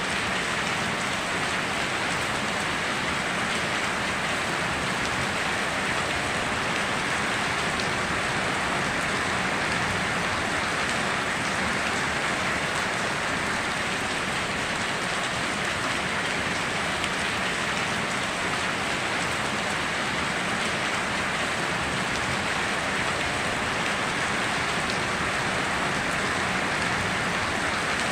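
Steady rain falling, an even hiss of drops with no thunder claps.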